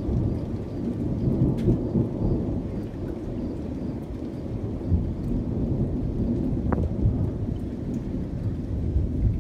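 Long low rumble of rolling thunder, rising and falling in strength without a break.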